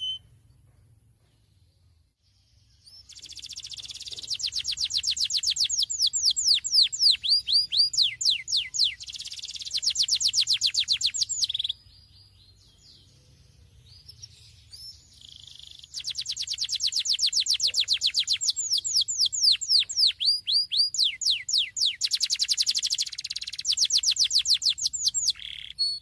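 Domestic canary singing: two long song phrases of rapid trills built from fast, repeated downward-sweeping notes. The first starts about three seconds in and breaks off suddenly near the middle; the second starts a few seconds later and runs almost to the end.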